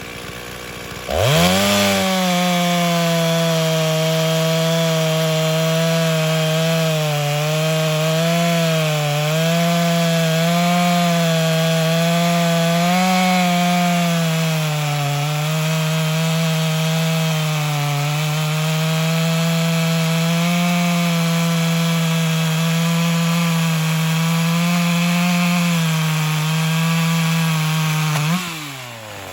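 Modified (ported) Stihl 036/440 hybrid two-stroke chainsaw with a 20-inch bar and .325 RS chain, held at full throttle through a long cut in silver maple. It revs up sharply about a second in, and its pitch sags and recovers repeatedly as the chain loads in the wood. Near the end it drops back off throttle.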